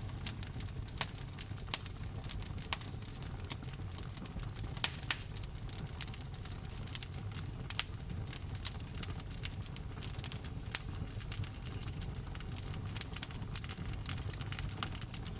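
Wood fire crackling in a fireplace: irregular sharp pops and snaps over a low steady rumble, with two louder pops close together about five seconds in.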